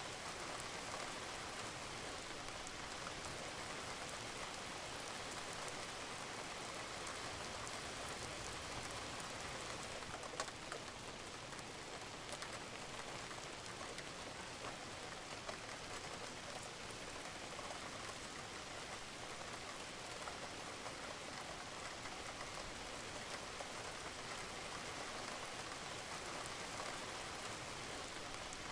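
Steady rain falling on a roof, a dense even patter with scattered individual drop ticks, one sharper drip about ten seconds in.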